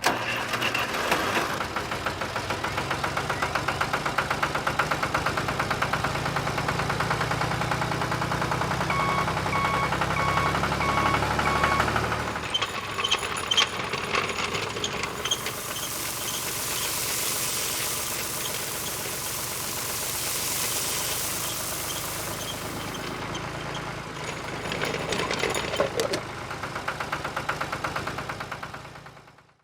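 A small motor-driven machine running with a fast, even knocking over a low hum. The sound changes abruptly about twelve seconds in, and a high hiss follows for several seconds.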